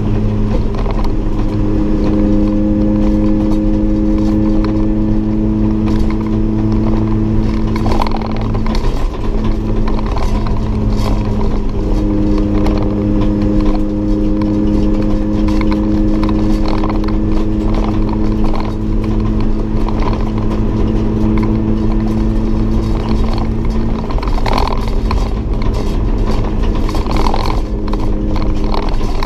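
Toyota 4A-GE 1.6-litre twin-cam four-cylinder engine running hard at a steady high pitch, heard from inside a stripped race-car cabin, with brief dips about eight seconds in and again near the end of the lap section, and light rattles from the cabin.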